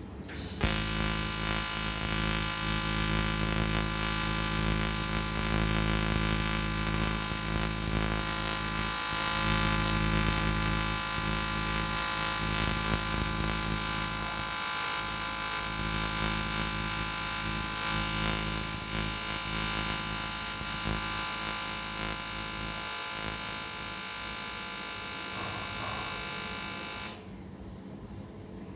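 AC TIG welding arc on an aluminium motorcycle cylinder block: a steady, harsh electric buzz. It strikes about half a second in and cuts off sharply a little before the end.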